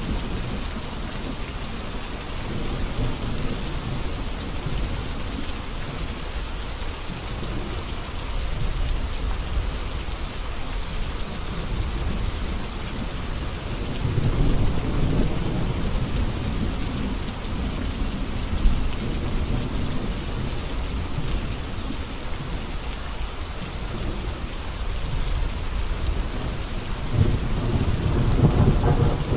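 Steady heavy rain with rolling thunder rumbling low, swelling about halfway through and again near the end.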